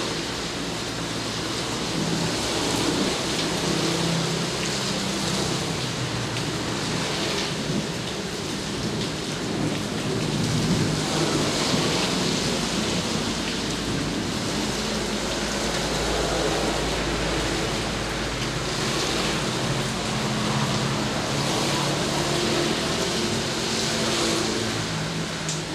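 Steady heavy rain falling, with low thunder rumbling through it at times.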